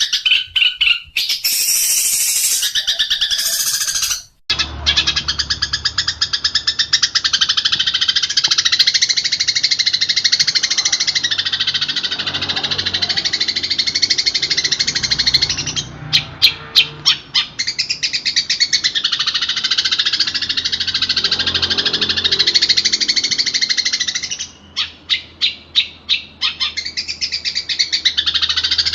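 Songbird song played from a training recording: a dense, fast, chattering warble of rapid repeated notes. It breaks off briefly about four seconds in, then carries on over a steady low hum. Runs of sharp, separate notes come in the middle and near the end.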